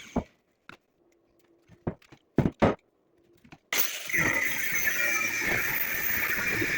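A workshop power tool with a high whine stops, and a few sharp knocks follow, the loudest two about two and a half seconds in. The whining machine sound cuts back in abruptly just before four seconds in.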